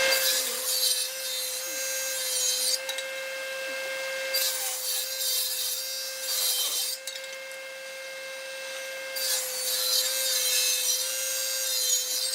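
A tool working wood in three scraping passes of about two and a half seconds each, over a steady hum.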